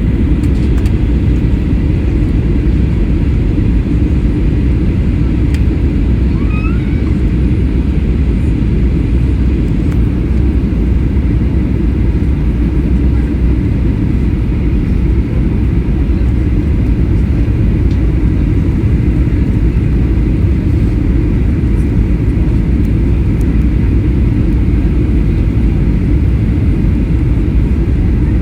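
Airliner cabin noise in flight: a steady, deep rumble of engines and airflow that holds even throughout.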